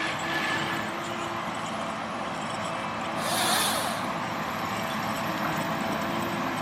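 Heavy forestry harvester running steadily, with a brief burst of hiss about three seconds in.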